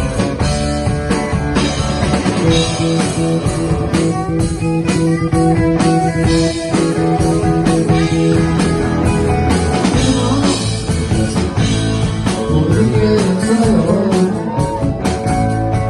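Live rock band playing an instrumental passage: a guitar lead with bending, wavering notes over bass guitar and a steady drum beat.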